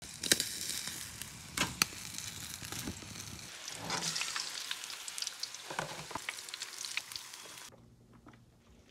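Fish sizzling as it cooks, first on a grill rack and then as battered pieces deep-fry in a wok of hot oil, with scattered sharp clicks and taps. The sizzling stops near the end.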